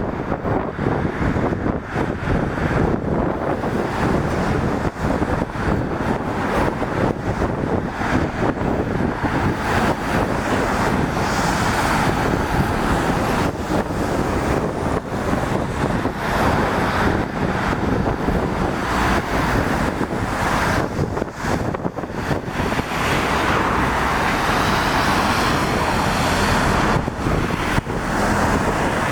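Road traffic, lorries and cars, passing on a wet road: tyre hiss swells twice as vehicles go by, over a steady rumble and wind buffeting the microphone.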